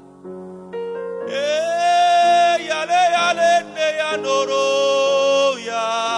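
Worship music: sustained keyboard chords with a man's voice holding long, wordless sung notes over them, beginning about a second in.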